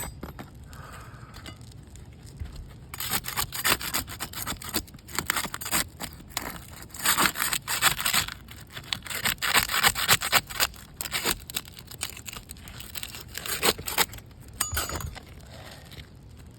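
Small crowbar scraping and prying under asphalt roof shingles, with gritty crackling and clicks from the brittle, hail-damaged shingle as it is worked loose. The sound is irregular and starts about three seconds in, then stops near the end.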